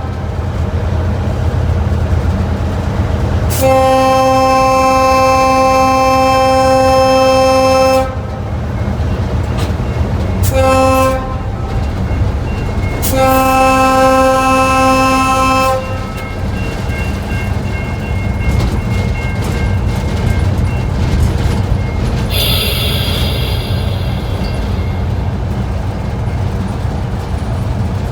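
Diesel locomotive horn sounding a long blast, a short blast and a long blast, the end of the two-long, short, long grade-crossing signal. Under it the locomotive's diesel engine rumbles steadily.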